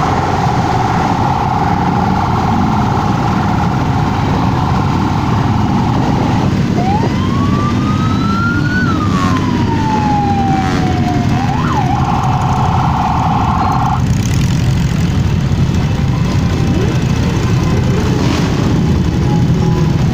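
Siren sounding a steady tone for about six seconds, then one slow wail rising and falling in pitch, then the steady tone again for about two seconds before it stops, over the continuous low rumble of motorcycle engines.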